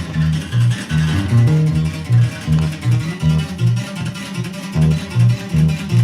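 A regional Mexican band playing live, an instrumental passage: strummed guitars over a bouncing bass line that alternates between two notes, about two to three notes a second.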